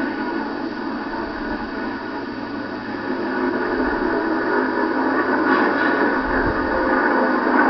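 Steady drone of race truck engines and track noise on a television race broadcast, growing a little louder in the second half.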